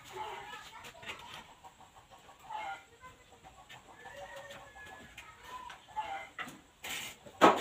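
Short bird calls, clucking like domestic fowl, come from outside now and then, with a few light knocks. A sharp knock near the end is the loudest sound.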